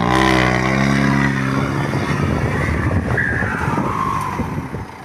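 4x4 vehicle engine revving hard in four-wheel drive as it tries to pull out of mud up to its axles. The engine note is steady for about two seconds, then breaks into a rougher, noisier churn.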